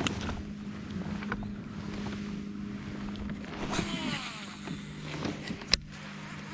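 Steady low hum from a fishing kayak, broken by a few sharp clicks and a short whirring sweep about four seconds in.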